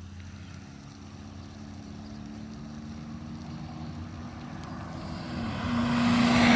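Exhaust of a 2007 Dodge Charger R/T's 5.7-litre Hemi V8 through an SLP Loudmouth 1 catback, a steady engine note growing steadily louder as the car approaches on a drive-by, loudest near the end.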